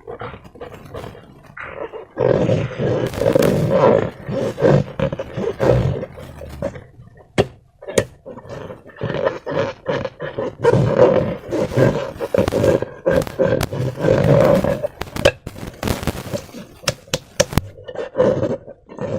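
Slime and air squeezed out of a balloon, a run of wet, raspy squelching bursts with a buzz to them, broken by short pauses and a few sharp clicks.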